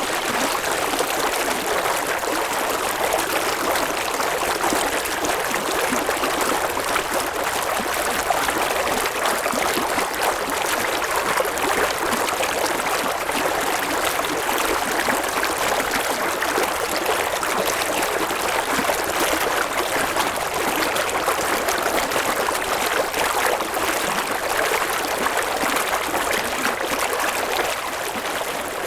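River water running steadily over stones: a continuous babbling rush.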